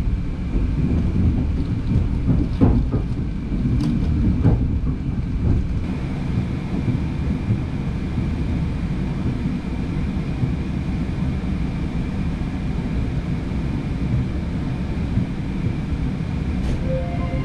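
Passenger train running, heard from inside the carriage: a steady low rumble of wheels on track, with a few sharp knocks in the first five seconds.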